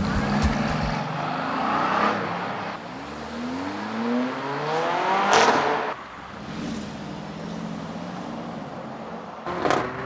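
Mercedes-AMG car engine accelerating, its note rising in pitch to a loud peak about halfway through as it goes past, then settling to a quieter steady engine sound, with a brief louder burst near the end.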